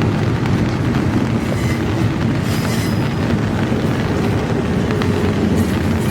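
Long, slow intermodal freight train rolling past close by: a steady low rumble of wheels and cars on the rails, with a few faint clicks.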